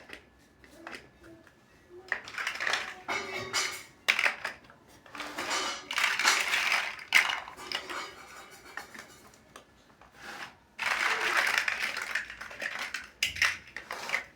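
Small plastic building bricks clattering and clicking as they are handled and pressed together, with sharp single clicks between several stretches of dense clattering that last a second or two.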